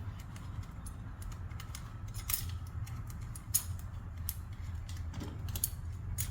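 Irregular light metallic clicks and taps of hand tools working on engine-bay metal parts, over a steady low hum.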